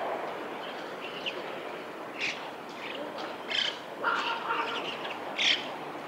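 A handful of short, sharp bird calls from about two seconds in, over a steady background hiss.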